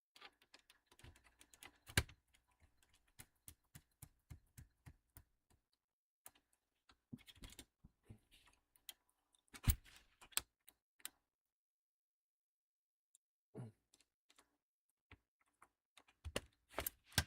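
Small clicks and taps of a screwdriver and screws working on a laptop's plastic case as its screws are driven back in. A few louder knocks come about two seconds in and again near ten seconds, with a short pause after the second.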